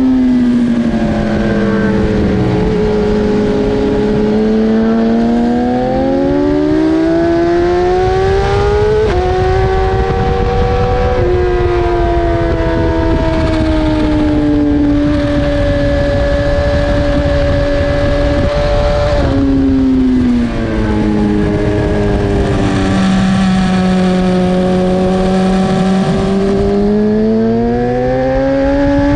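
BMW S1000RR inline-four engine at racing speed, heard onboard with wind rush. Its pitch falls, climbs and jumps as the throttle is worked and gears change, with a sharp drop about two-thirds of the way through and a long climb again near the end.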